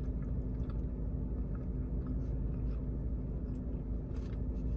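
Steady low hum with a constant tone, over which come faint small clicks and mouth sounds of someone chewing food.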